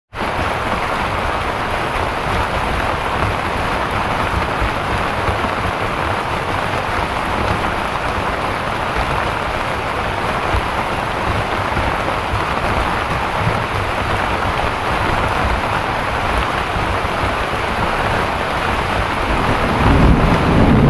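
Heavy rain pouring steadily, with a low rumble of thunder swelling near the end.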